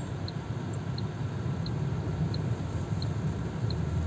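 Steady low rumble of a car and wind heard from inside the vehicle during a sandstorm, with a faint, regular tick about every two-thirds of a second.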